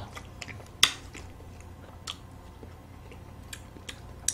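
Frozen melon ice cream bars being bitten and chewed: a few scattered, sharp bite and mouth clicks, the loudest about a second in.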